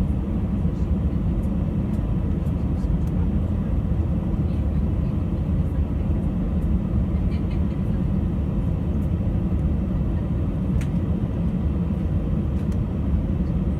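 Steady engine and airflow rumble of an Airbus A319 heard from inside the passenger cabin.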